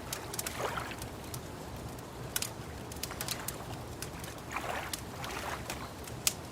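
Wood fire crackling with scattered sharp pops, over soft lapping of lake water that swells a few times.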